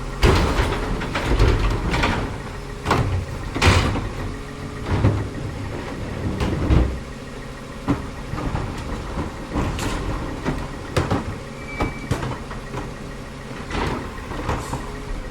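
CCC LET2 garbage truck running steadily, with a series of sharp bangs and clanks from its body and equipment as it works a collection stop.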